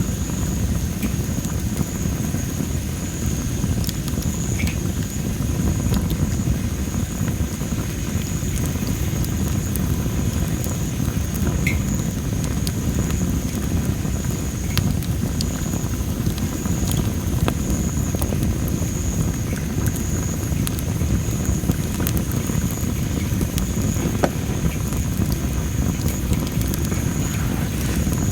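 Dry masaki (Japanese spindle tree) firewood burning, with scattered sharp crackles and pops over a steady low rumble of the fire. A steady high-pitched tone sounds underneath.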